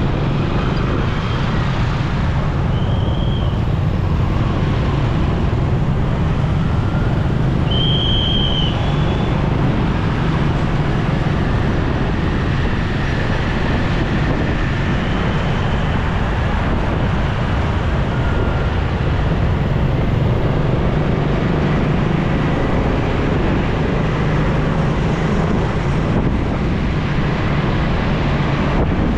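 Steady road noise of a motorcycle riding through city traffic: engine and traffic rumble with no breaks, and short high tones at about three and eight seconds in.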